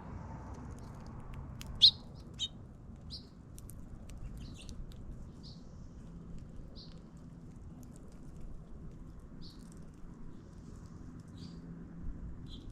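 Small birds chirping: short high chirps about once a second, the loudest just under two seconds in, over a steady low background rumble.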